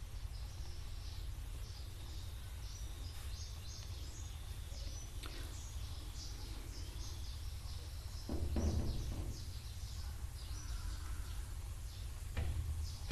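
Birds chirping in the background over a steady low hum, with a short louder noise about eight seconds in and another near the end.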